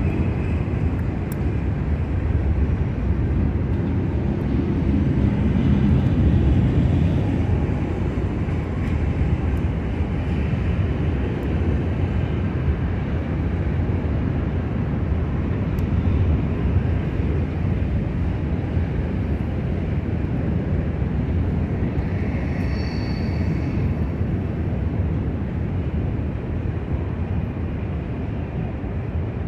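Distant train rolling by on the Union Pacific Martinez Subdivision: a steady low rumble. A brief high-pitched tone sounds near the end.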